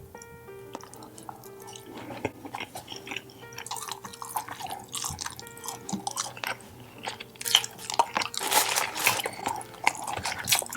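Close-miked chewing, with wet mouth clicks and crunching bites, over soft background music. The eating gets louder and busier about seven and a half seconds in.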